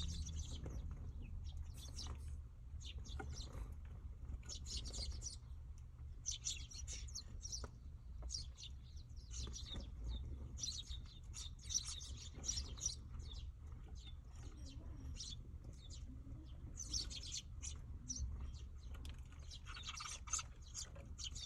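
Eurasian tree sparrows chirping in repeated bursts of short, high calls, over a steady low rumble.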